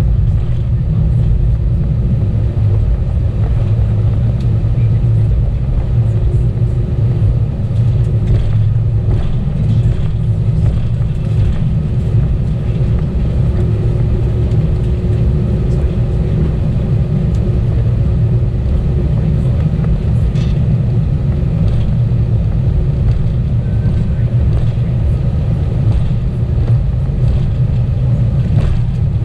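Steady low rumble of an Airbus A320's engines and airflow heard inside the passenger cabin, with a faint steady hum above it.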